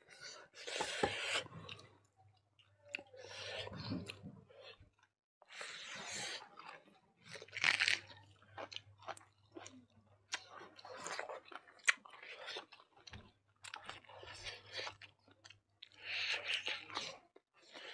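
Close-up chewing of two people eating chicken curry and rice by hand, in irregular bursts with sharp clicks.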